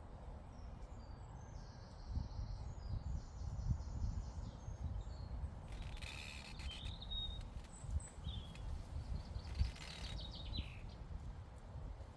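Meadow ambience: wind buffeting the microphone in uneven low gusts, with small birds chirping now and then.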